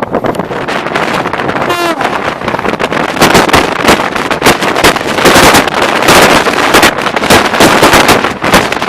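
Loud rush of a moving train, with wind buffeting the microphone. About three seconds in, a dense, irregular clatter of wheels over rail joints sets in.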